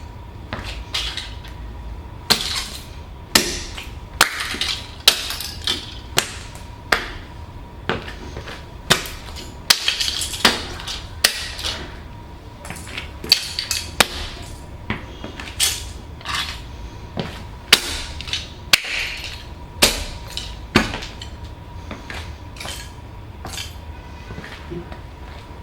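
Riding boots stomping on a toy fire truck and crushing it: a long run of sharp cracking impacts, roughly one a second, with crunching and snapping between them, thinning out near the end.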